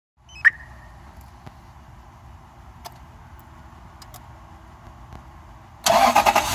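A faint steady hum with a sharp click about half a second in and a few faint ticks, then, near the end, the 2006 Lexus LS430's V8 is cranked and fires: a sudden loud burst of quick knocks settling into a steady run.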